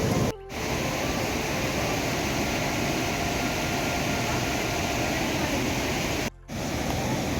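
Steady heavy rain falling, cut off for a moment twice.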